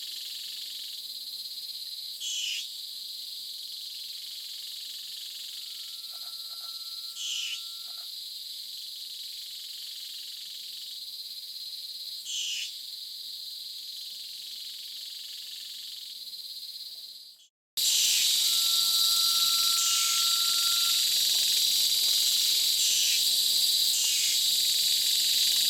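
Black-crowned pitta giving its long, level whistle twice, each lasting about two and a half seconds. Behind it runs a steady high insect drone, with brief rasping notes about every five seconds.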